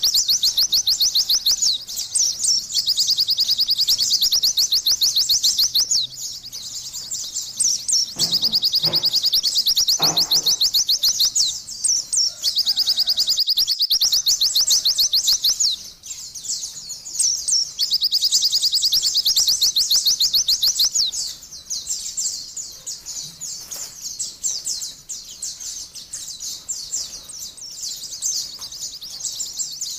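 White-eye (pleci) singing long runs of rapid, high-pitched chirping trills, broken by short pauses every few seconds. The song grows softer and more broken about two-thirds of the way through.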